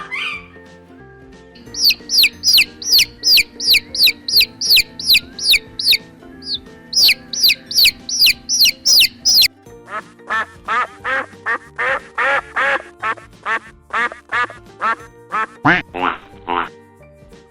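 A duck quacking over and over, several quacks a second, over background music. It follows a run of rapid, very high, falling chirps.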